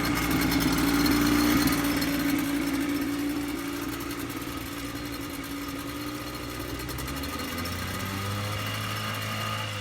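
1973 Mercury 110 9.8 hp two-stroke outboard running steadily in a test barrel after a carburettor rebuild, slightly louder in the first couple of seconds and settling to a lower speed about seven seconds in.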